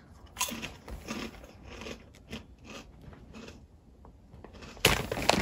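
A person biting and chewing a crispy, puffed bean-based cracklin snack, with irregular crunches. A louder rush of noise comes near the end.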